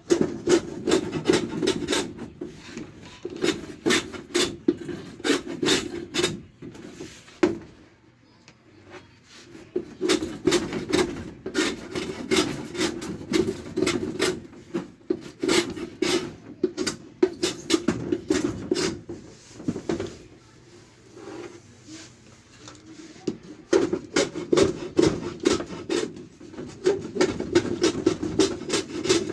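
A hand tool scraping wood in quick back-and-forth strokes, in runs broken by short pauses.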